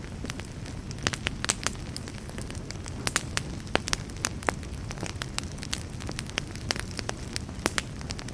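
Campfire burning with frequent sharp, irregular crackles and pops over a steady low rumble of the flames.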